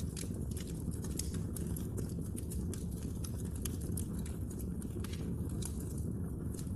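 Wood fire crackling: many sharp pops and snaps, several a second, over a steady low rumble.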